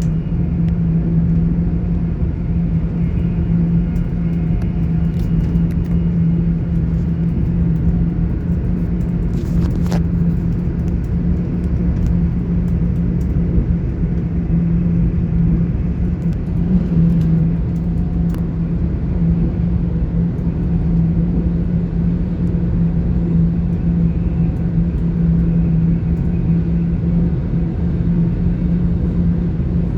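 Class 800 IET train heard from inside the carriage while running at speed: a steady rumble of the wheels on the track under a constant low hum, with a single sharp click about ten seconds in.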